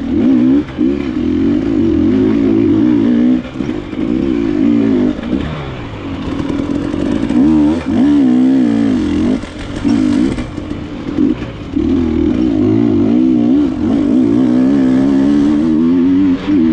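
KTM enduro motorcycle engine revving up and down as the throttle is worked, its pitch wavering constantly, with brief drops where the throttle is chopped or a gear is changed.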